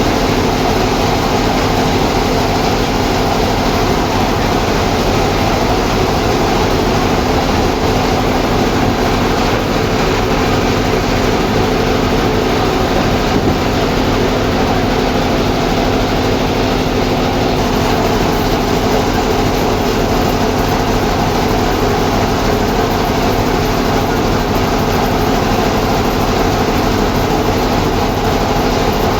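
Sawmill saw machinery running steadily at cutting a large log: a loud, continuous mechanical drone with a steady hum held throughout.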